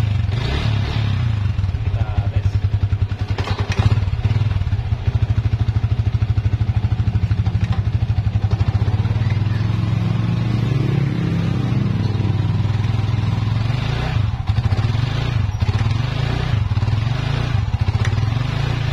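Yamaha Vixion's 150 cc single-cylinder four-stroke engine running steadily, with a short knock about four seconds in. The ticking and cracking from the rear hub is no longer heard: the rear hub noise has been cured.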